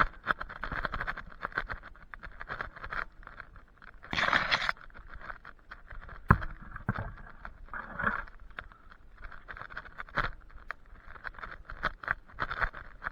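Irregular rustling and crackling of leafy branches and twigs, with a sharp knock about six seconds in and another about ten seconds in.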